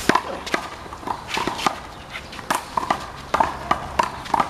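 A handball rally: sharp smacks of a rubber handball struck by hand, hitting the wall and bouncing off the court, about ten in all at an uneven pace of roughly two a second.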